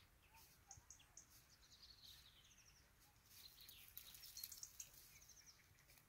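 Faint chirping and twittering of small wild birds: many short high calls and quick trills, getting busier about halfway through.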